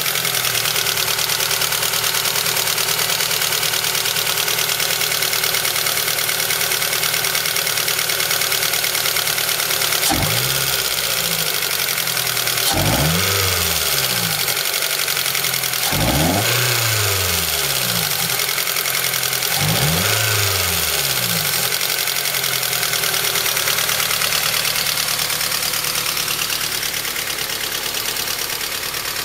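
Toyota Celica GT-S's rebuilt 2ZZ-GE four-cylinder engine idling with a valve noise, revved up briefly and let fall back four times around the middle. The owner links the noise to the intake camshaft gear.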